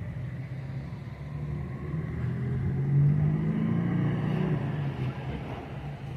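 A car engine driving past at low speed, growing louder to a peak about halfway through and then fading.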